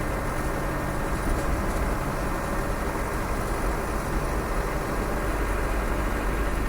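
Land Rover 300Tdi 2.5-litre four-cylinder turbodiesel running steadily at road speed, with tyre and road noise, heard from inside the cab.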